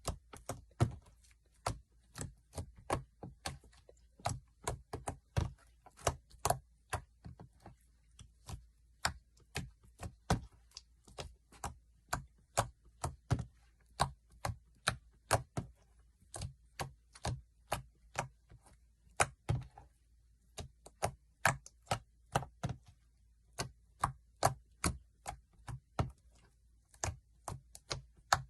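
Slime being pressed and squeezed by hand, giving off a rapid, uneven series of sharp clicking pops, about two or three a second.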